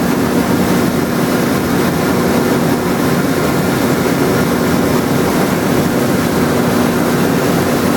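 Drill press running steadily with a constant hum, boring pierce holes in the wood.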